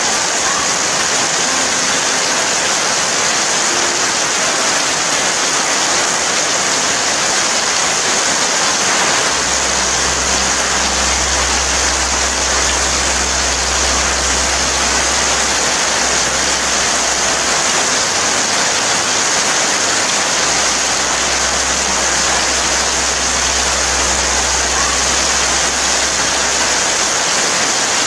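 Steady rain, an even hiss with most of its weight high up. A low hum joins twice, each time for about six or seven seconds.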